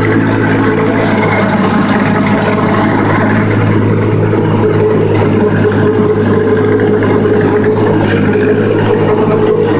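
Tractor engine running steadily at working speed under load while mowing hay.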